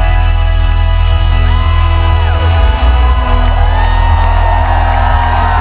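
A folk-rock band playing live through a loud festival sound system: a long sustained chord over heavy bass. Audience members whoop and shout over it from about a second and a half in.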